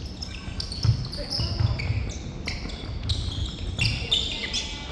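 Court sounds of an indoor korfball game in an echoing hall: feet and the ball on the hard floor, with many short, sharp high-pitched sounds and brief calls from players.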